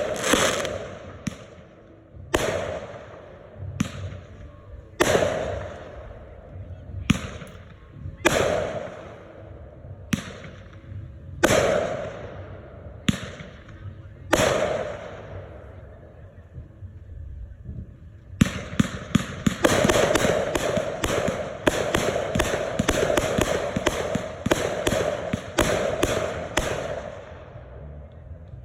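Red Apple consumer aerial fireworks going off: single sharp bangs about every second and a half, each trailing off. After a short lull comes a rapid volley of bangs lasting about eight seconds.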